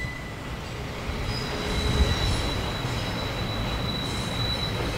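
Freight train of loaded double-deck car-carrier wagons rolling slowly, a steady low rumble with a thin, high-pitched wheel squeal that starts about a second in and holds to near the end.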